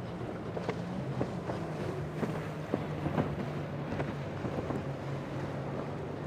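Boat engine running steadily at a low hum, with wind on the microphone and water noise, and a scatter of short clicks and knocks.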